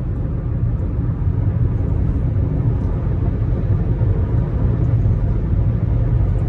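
Steady low rumble of a vehicle on the move, engine and road noise running evenly without change.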